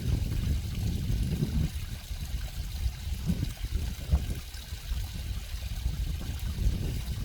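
Water of a stream flowing and trickling, an uneven churning sound that is strongest low down, with a steady faint hiss above it.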